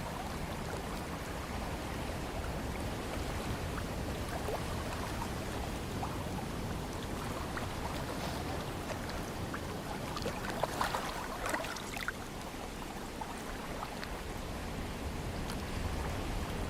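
Steady wash of ocean water and breeze, with a short cluster of splashes about eleven seconds in.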